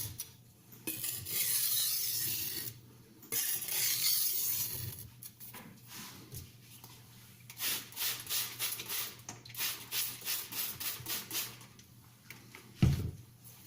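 Stainless Tramontina kitchen knife blade rubbing across the coarse side of a wet silicon carbide whetstone. There are a few long strokes, then a run of short quick strokes about three a second, and a single sharp knock near the end.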